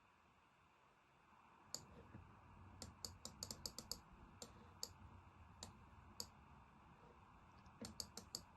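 Faint, irregular clicking at a computer: about fifteen short sharp clicks, several in quick succession around three to four seconds in and again near the end.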